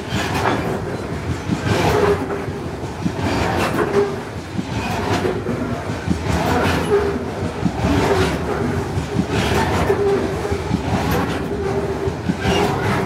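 Loaded coal hopper wagons rolling past, their wheels clacking over the rail joints, often in pairs about every second, over a steady rumble of the train.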